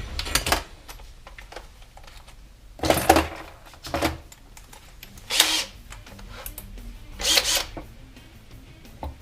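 Workshop tool noise on engine parts: about five short, separate bursts spaced a second or two apart, each under a second, over faint background music.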